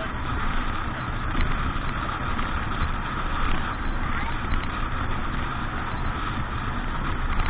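Motorboat running steadily under way: an even low engine rumble mixed with rushing noise, with no breaks or changes.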